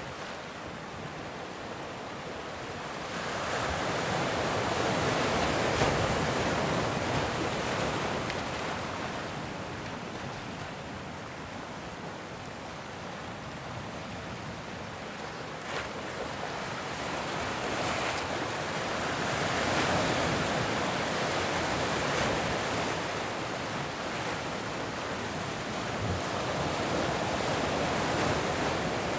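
Ocean surf: waves breaking and washing in, the rushing noise swelling and fading back in slow surges every several seconds.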